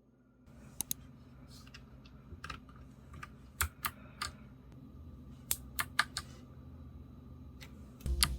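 Keystrokes on a NuPhy Air75 low-profile mechanical keyboard with Gateron blue switches: irregular, scattered clicks in small clusters, a few keys at a time.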